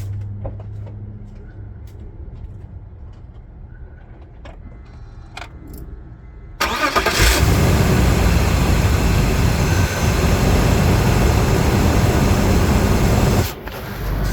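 A few faint clicks, then about six and a half seconds in the 2002 BMW 325xi's straight-six cranks briefly and catches on a cold start. It then runs loud and steady with the secondary air pump running, as it does after a cold start. The sound drops briefly near the end.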